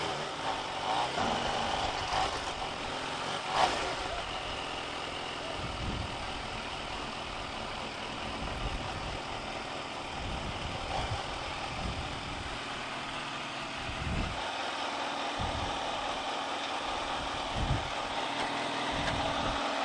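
A motor vehicle engine idling steadily under a continuous outdoor background, with a few short low thumps in the second half.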